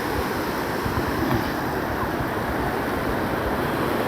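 Sea surf washing on a beach as a steady wash of noise, with wind buffeting the microphone in low rumbles.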